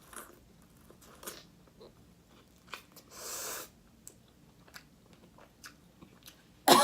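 A person chewing and biting food close to the microphone, with small wet clicks and crunches and a breathy hiss about three seconds in. A sudden loud cough comes right at the end.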